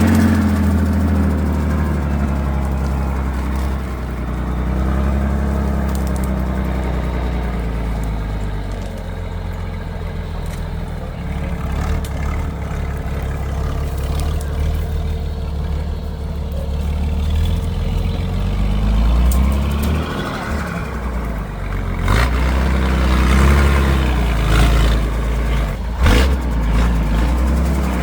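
Heavy off-road truck engine running under load, its pitch rising and falling as it revs through several surges. There are a couple of sharp knocks near the end.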